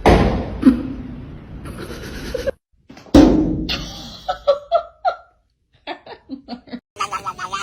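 Two loud sudden crashes, near the start and about three seconds in, each fading away, followed by short repeated bursts of a person laughing.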